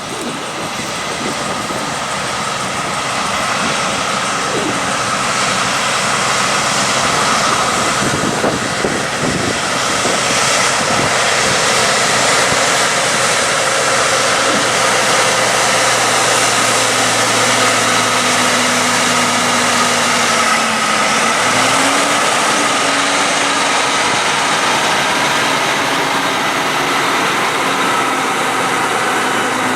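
Heavy road trucks running past, a dense steady engine and tyre noise, with an engine note climbing briefly about two-thirds of the way through, and strong wind noise on the microphone.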